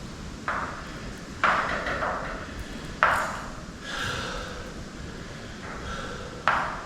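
Can of expanding spray foam hissing in short bursts as its trigger is pressed, four sudden starts that each fade over about a second.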